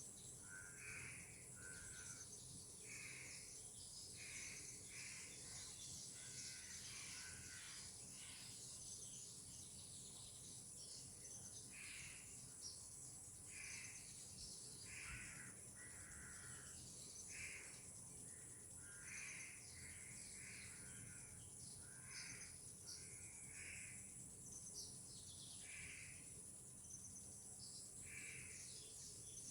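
Faint birdsong: a bird gives short calls about once a second, with a few pauses, over a steady high insect buzz.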